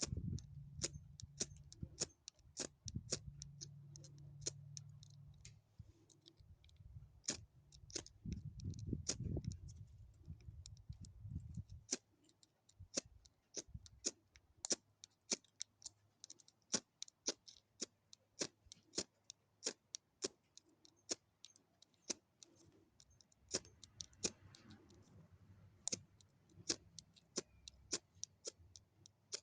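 A long run of short, sharp clicks, one or two a second, with a low rumble under them for the first twelve seconds or so.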